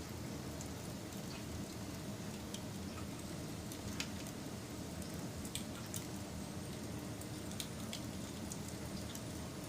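Wood fire burning: a steady low rushing of flames with irregular sharp crackles and pops from the burning wood.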